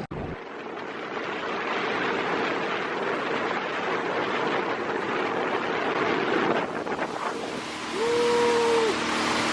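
Wind on the microphone and rushing water as a motorboat moves. About eight seconds in, a steady tone sounds for about a second, followed by a steady low hum.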